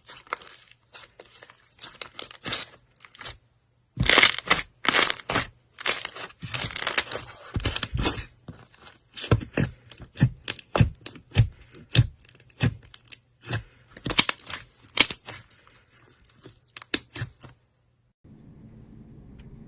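Slime being squeezed and stretched by hand: a long run of sticky crackles, pops and tearing sounds, which stop near the end. A faint steady low hum follows.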